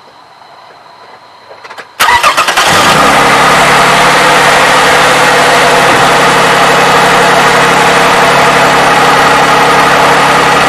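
A 2007 Toyota 3.5L V6 engine is started about two seconds in. It cranks briefly, catches, and settles into a steady idle.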